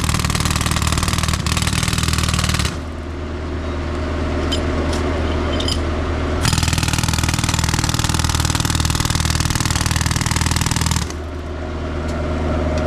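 Jackhammer breaking up road pavement in two long runs of rapid hammering, the first stopping about two and a half seconds in and the second starting again a few seconds later. A steady engine hum runs underneath throughout.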